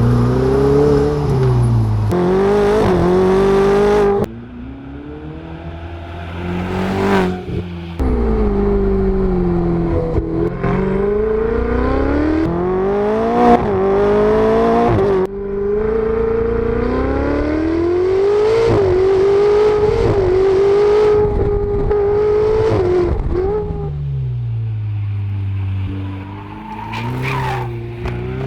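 High-performance sports car engine and exhaust at high revs, the pitch climbing and falling again and again as it accelerates, shifts and lifts off. Several abrupt drops in level break it up.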